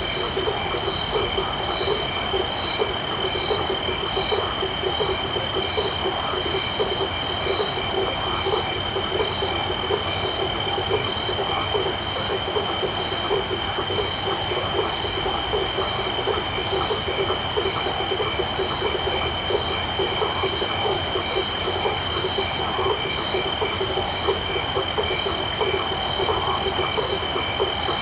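Night chorus of frogs calling in dense, rapid pulses, over the steady high-pitched trilling of crickets.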